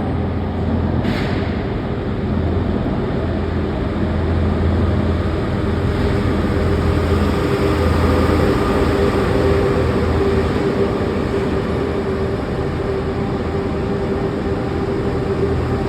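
MI2N Eole double-deck electric multiple unit running on the rail: a steady, loud rumble with a constant hum, and a short click about a second in.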